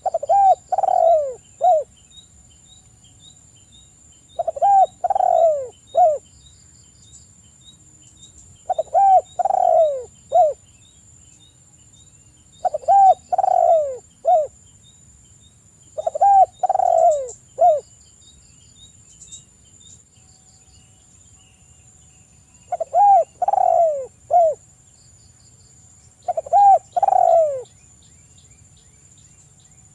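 Spotted dove cooing: a repeated phrase of three or four low, descending coos, given about every four seconds, with one longer pause in the middle.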